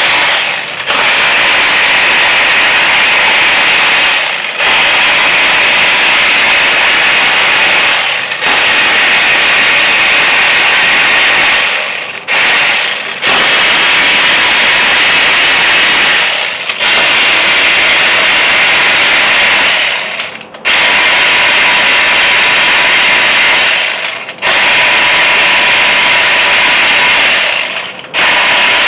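Power tool spinning head bolts out of a small-block Chevy 350's cylinder head. It runs in stretches of about four seconds, each ended by a brief pause, seven times over.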